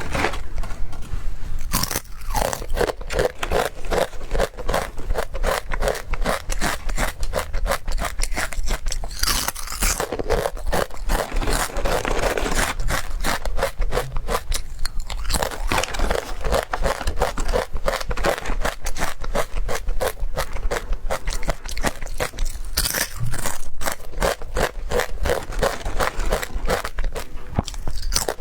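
Close-miked crunching and chewing of puffed vegetable crisps: a rapid, continuous run of crisp crunches, several a second, with louder bites now and then.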